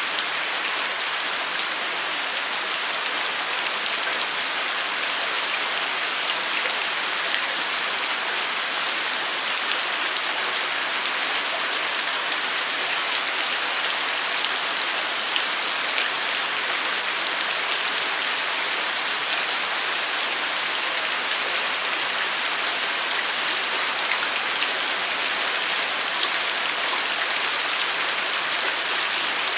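Steady rain falling: a dense, even hiss with many fine drop taps.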